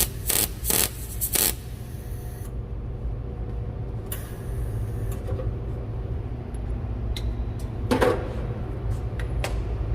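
Welder putting a tack weld on an exhaust pipe joint: a burst of welding noise lasting about a second and a half at the start, followed by a couple of shorter sounds later, over a steady low hum.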